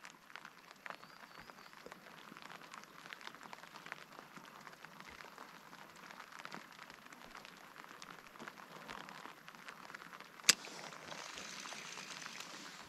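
Light rain pattering faintly on a lake surface around a canoe, a haze of many small drop ticks. A single sharp click stands out about ten and a half seconds in.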